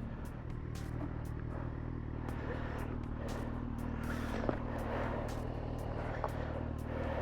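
Kawasaki motorcycle engine running at low, steady revs while the bike is ridden slowly.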